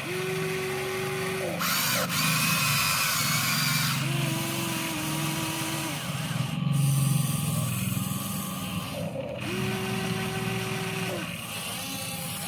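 Electric motors and gearboxes of a Huina 1593 RC model excavator whining in spells of a second or so as the arm and bucket move, starting and stopping several times over a steady gear hum. A burst of noise comes about two seconds in and lasts around two seconds.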